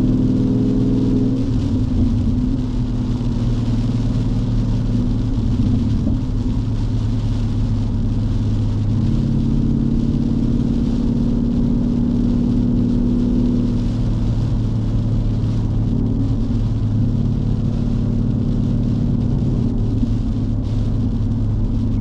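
2019 Ford Mustang GT's 5.0-litre V8 cruising steadily through an MBRP cat-back race exhaust, a low drone heard from inside the cabin, its note shifting slightly a few times. Rain and wet-tyre hiss run underneath.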